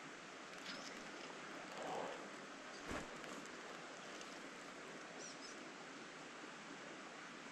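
Steady low hiss of a flowing stream, with a single short knock about three seconds in and a few faint high chirps a little after the middle.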